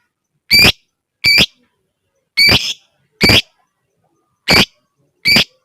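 Lovebird giving six short, sharp, shrill calls, spaced roughly a second apart.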